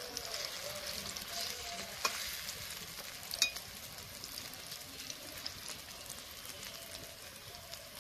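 Ground red lentil and egg batter frying in hot oil in a metal kadai, sizzling and crackling while a metal spatula stirs and spreads it. The spatula clicks sharply against the pan twice, about two and three and a half seconds in. The sizzle slowly gets quieter.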